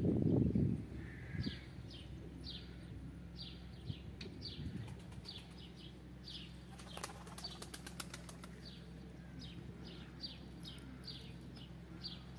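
Small birds chirping over and over, short high notes that fall in pitch. A low rumble sounds in the first second, and a quick rattle of clicks comes about seven seconds in.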